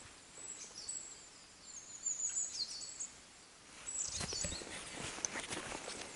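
Small birds singing in high, quick chirps and short trills. About four seconds in, footsteps start as the birds go on.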